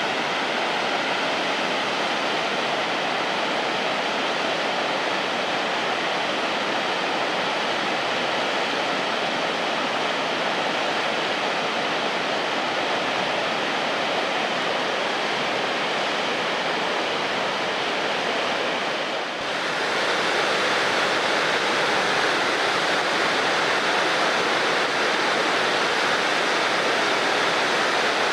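Shirahige Falls rushing and splashing into the river, a steady rushing noise. About two-thirds of the way through it briefly dips, then carries on louder and brighter.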